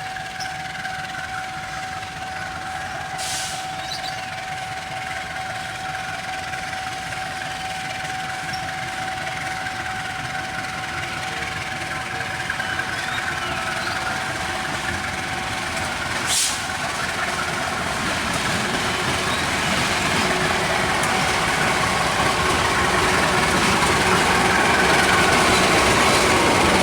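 Train on the rail line, its engine and running noise growing steadily louder as it comes on. A steady high tone holds through the first half, and there is a single sharp click about sixteen seconds in.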